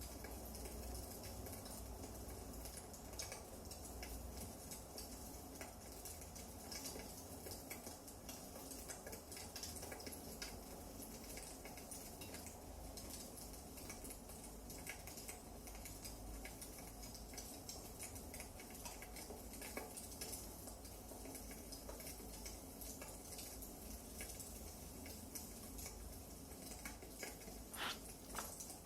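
Wood fire burning in a fireplace, crackling steadily with many small sharp pops and a couple of louder snaps near the end.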